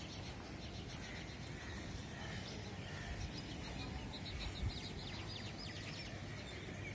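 Birds chirping in quick repeated series, loudest a little past the middle, over a steady low rumble of outdoor background noise, with a brief low bump of handling noise near the middle.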